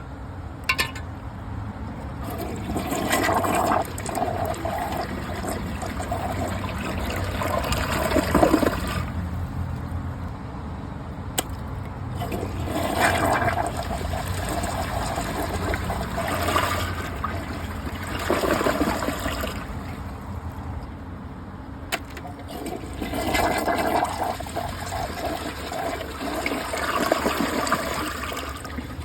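Kohler Wellworth gravity toilet with Ingenium flush being flushed again and again: water rushing into the bowl and draining in several surges, with the tank refilling between them. A sharp click about a second in and another near the end of the second third.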